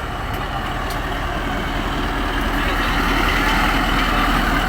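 ZCU-20 diesel-electric locomotive running under power as the train pulls away, a steady mechanical rumble that grows slowly louder.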